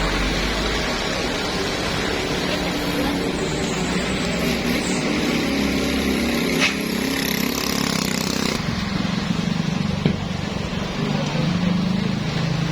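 Heavy road-vehicle engine noise with traffic running steadily, with a couple of short sharp knocks, the sharpest about ten seconds in.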